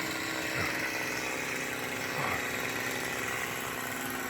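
Chainsaw idling steadily at a low, even pitch between cuts.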